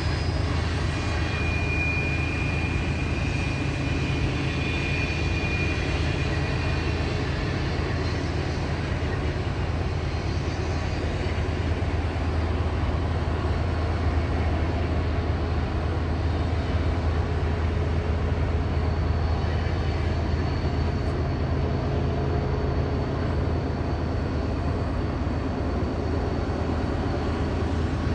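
Diesel locomotives of a freight train working steadily: a continuous low engine drone with no breaks. A faint thin high-pitched tone comes and goes over it.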